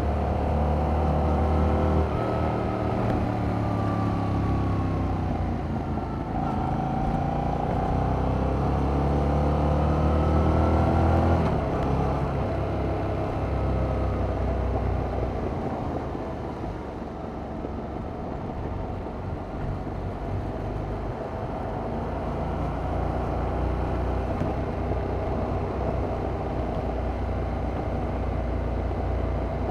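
Yamaha MT-07's 689 cc parallel-twin engine through its stock exhaust, heard onboard while riding: the revs fall, then climb hard until about eleven seconds in, when the note drops away. For the rest, the engine runs steadier and lower under wind and road noise.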